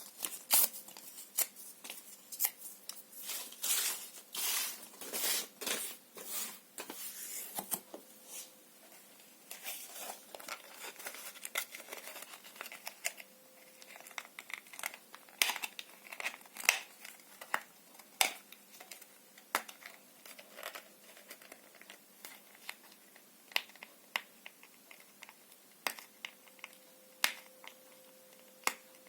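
Paper and cardboard being torn and crumpled by hand: a run of longer tearing strokes in the first third, then sparser crinkles, snaps and rustles.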